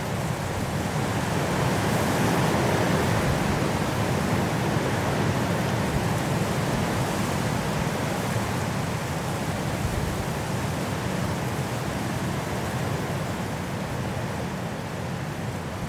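Strong wind blowing through forest trees in a snowstorm: a steady rushing noise that swells a few seconds in and eases slightly near the end.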